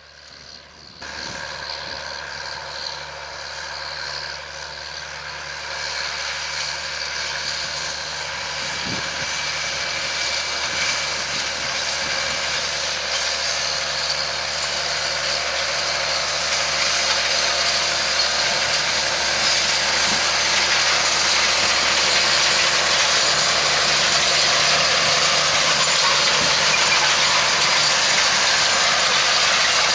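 John Deere 7920 tractor's six-cylinder diesel engine working steadily while pulling a seed drill. It starts about a second in and grows steadily louder.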